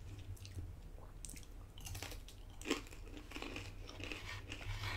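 Chewing crispy bacon, with irregular crunches and one louder crunch a little past halfway.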